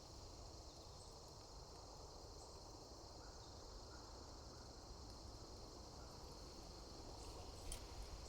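Near silence with a faint, steady high-pitched insect chorus, crickets, and a single soft click near the end.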